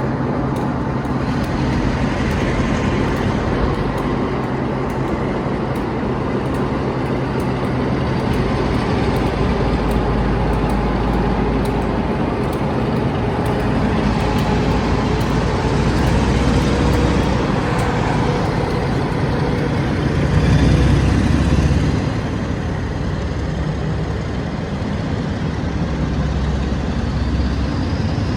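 A train running in a railway station: a steady, loud rumble, with a low engine hum in the first third that gives way to deeper rumbling.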